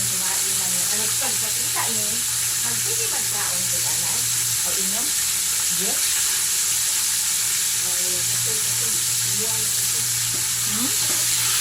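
Chicken frying in hot oil, with a steady sizzle.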